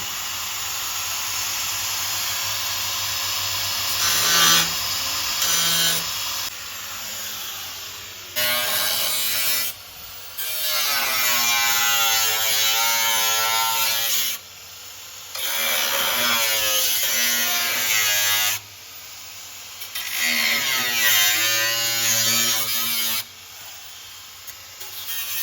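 Hand-held electric power tool running in several bursts of a few seconds each, with short stops between, its pitch wavering during each run.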